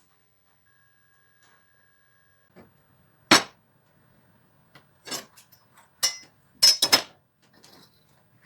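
A handful of sharp metallic clanks and clinks, spaced irregularly, some ringing briefly: metal parts or tools being struck or set down on a hard surface.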